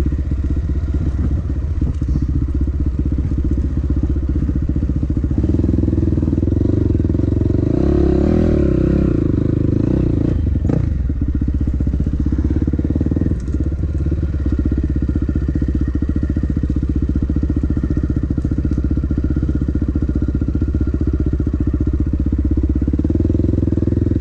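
Dirt bike engine running while riding, steady, with the revs rising and falling about eight seconds in. A couple of short knocks come around eleven and thirteen seconds in.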